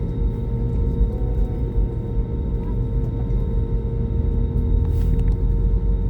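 Jet engines of an Airbus A320 heard from inside the cabin, a steady deep rumble with a constant hum over it.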